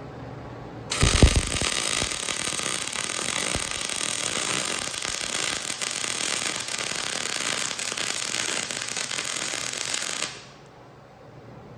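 MIG welder arc crackling steadily as a weld bead is run, starting with a pop about a second in and cutting off abruptly near the end.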